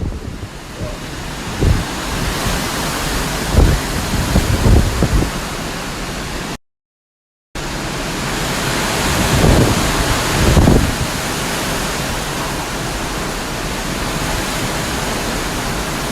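Hurricane-force wind and rain make a steady rushing noise, with gusts buffeting the microphone in low thumps. The sound cuts to silence for about a second midway, then resumes.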